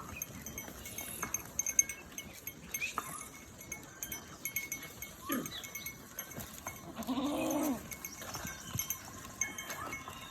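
A flock of goats and sheep on the move, with scattered light clinks and taps and one long bleat about seven seconds in.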